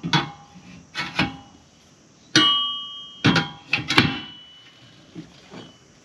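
Metal tools or parts knocking and clanking together, about nine separate clanks, two of which ring on for about a second.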